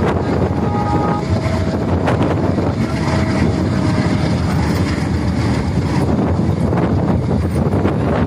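Passenger train running along the track: a steady rumble of the moving coach, with wind buffeting the microphone.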